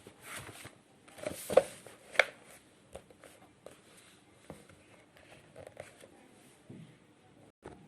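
Pen writing out an equation: short scratchy strokes and small taps, with two louder strokes about one and a half and two seconds in.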